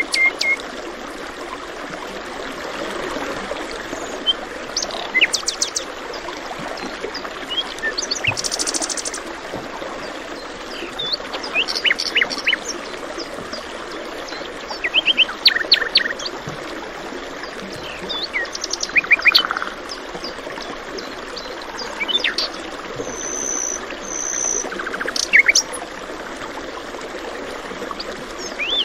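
Several wild birds singing, with short chirps, quick trills and a pair of high whistled notes scattered throughout, over the steady rush of a flowing stream.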